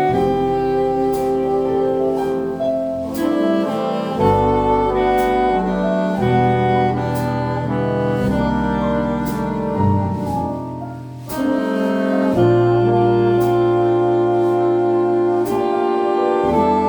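Small jazz ensemble playing a slow tune live: saxophones, trumpet and trombone in held harmony over piano, double bass and drums, with a steady tick of cymbal strokes. The sound thins out briefly about ten seconds in, then the full band comes back in.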